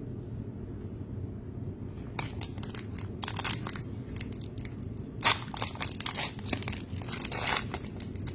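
Plastic trading card pack wrapper crinkling and tearing as a pack is opened and the cards handled, in irregular sharp rustles starting about two seconds in, loudest about five seconds in, over a low steady room hum.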